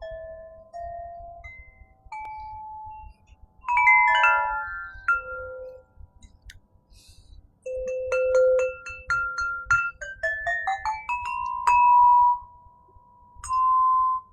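Crystal harp played slowly: clear, pure bell-like notes struck singly and in small clusters, each ringing and fading. About two-thirds of the way through a run of notes climbs in pitch and settles on a held note.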